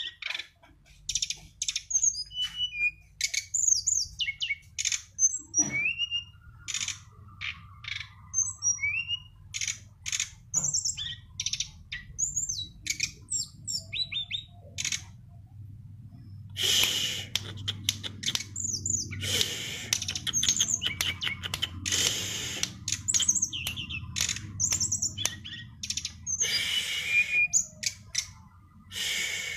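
Songbirds chirping and singing in quick, high, repeated chirps and short trills, busier and louder in the second half, over a faint low hum.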